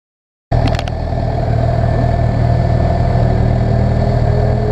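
Motorcycle engines idling steadily, cutting in abruptly about half a second in, with a couple of short clicks right at the start.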